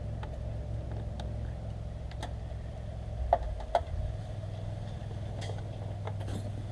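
Steady low mechanical hum with a few light clicks and taps.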